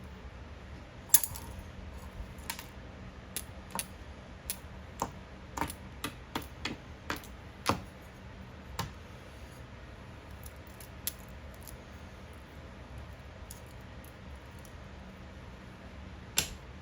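Small metal parts and tools clinking and tapping in an irregular run of sharp clicks. The run is busiest in the first half, thins out after that, and ends with one louder clink.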